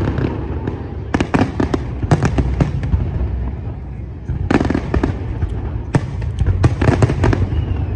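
Aerial display fireworks bursting in rapid clusters of sharp cracks and bangs over a steady low rumble, with a lull in the middle.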